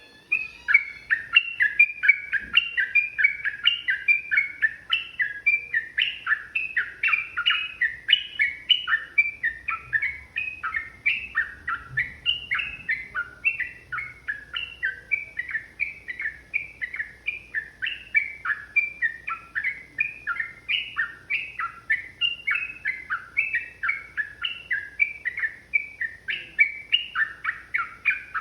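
Yellow-vented bulbul (trucukan) song: a long, unbroken run of quick, sharp chattering notes, about three a second.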